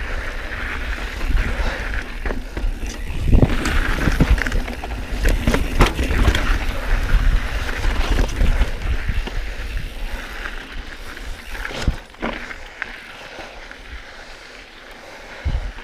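Mountain bike ridden over rough dirt and rock trail: continuous tyre noise with frequent clattering and knocks from the bike, over a low rumble. It eases off about two-thirds of the way through, leaving a few sharper single knocks.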